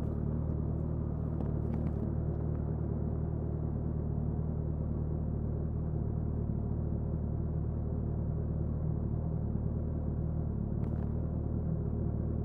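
Suzuki Hayabusa inline-four engine and exhaust running at a steady, low engine speed, with an even, unchanging pitch.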